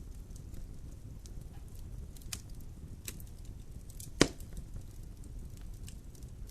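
Wood fire burning in a fireplace: a steady low rumble of the flames with scattered crackles, and one loud pop a little after four seconds in.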